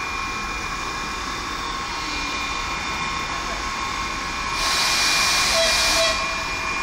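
Steady hum of a standing passenger train with two high, steady whining tones in it. About four and a half seconds in, a louder hiss joins for about a second and a half and then cuts off.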